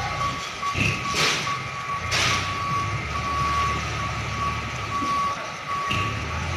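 Tractor-trailer truck reversing: its back-up alarm beeps steadily over the diesel engine's low running, with two short hissing bursts about a second and two seconds in.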